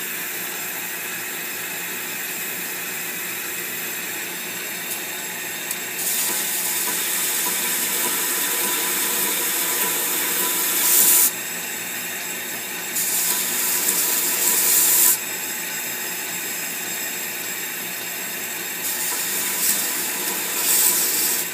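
A power grinder running steadily, with a knife blade pressed against it in three passes of loud hissing: a long one starting about six seconds in, a shorter one around thirteen seconds, and another near the end. The blade is being ground at a steep angle, about 35 degrees, to thin it down to the thickness of the edge.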